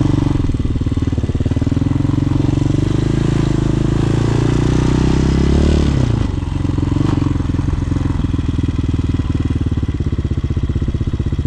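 Single-cylinder Hawk 250 dual-sport motorcycle engine under way. It rises in pitch for several seconds, drops sharply about six seconds in as the throttle closes, then runs lower and steadier.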